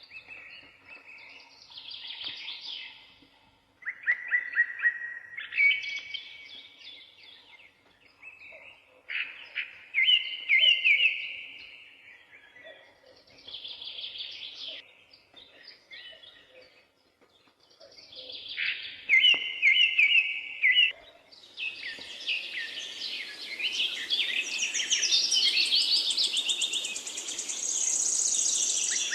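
Several songbirds singing in short, chirpy, trilled phrases every few seconds. In the last several seconds the songs run together into a denser chorus.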